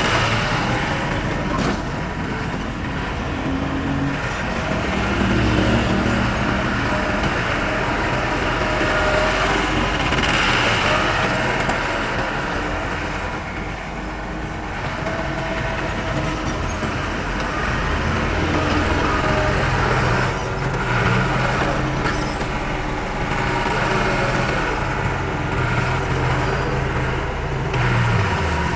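Heavy diesel engine of earthmoving machinery running continuously under changing load, its pitch shifting up and down; near the end the revs drop.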